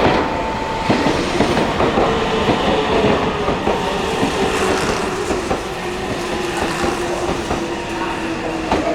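Electric train running on rails, with wheel clatter and a steady motor whine that falls slowly in pitch.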